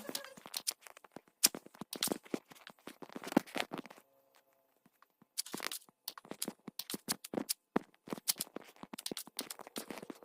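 Irregular clicks, taps and scraping from hands working on small objects, with a pause of about a second and a half near the middle.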